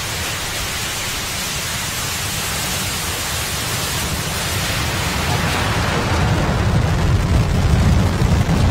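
SpaceX Falcon 9's nine Merlin 1D engines at liftoff: a steady rushing noise that grows louder, with a deep, crackling rumble building from about five seconds in.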